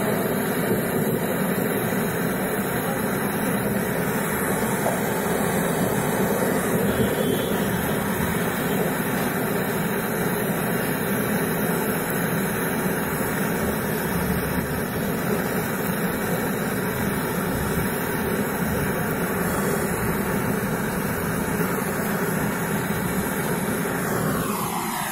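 Gas brazing torch flame burning with a steady noise while a refrigerator compressor's pipe joints are brazed, then shut off near the end, the noise dropping away quickly.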